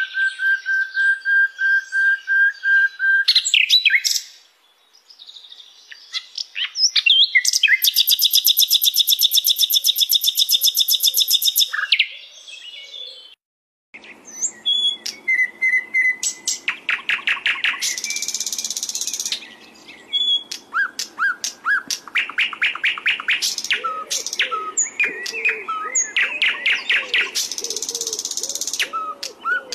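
Sikatan londo flycatcher singing: a long held whistle, fast buzzy trills and quick chattering phrases. Just under halfway through the song stops briefly, and after that a faint low hum runs beneath it.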